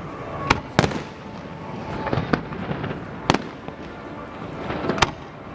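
Fireworks display: about five sharp bangs of bursting shells, roughly a second apart, over continuous crackling.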